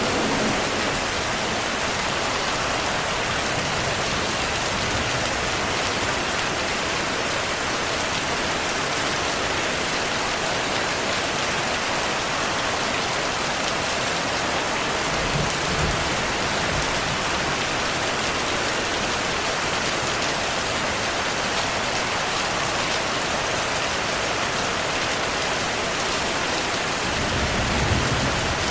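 Steady heavy rain falling, an even hiss of drops, with two short low rumbles of distant thunder, one about halfway through and one near the end.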